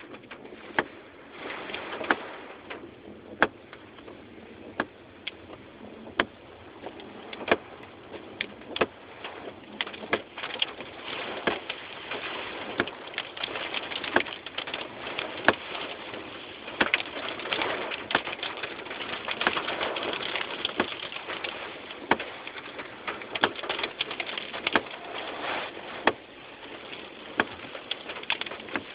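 Squall wind gusting in waves, swelling and easing, with frequent sharp taps and knocks scattered throughout.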